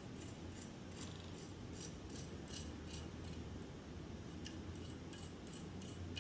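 Faint, irregular metallic clicks and scrapes of small metal parts being handled on a threaded rod, over a low steady hum.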